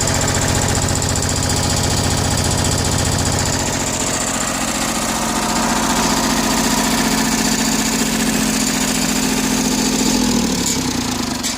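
Iseki TU175 compact tractor's three-cylinder diesel engine running steadily, its sound changing about four seconds in and its pitch falling near the end. The exhaust shows no smoke, a sign the engine is in good shape.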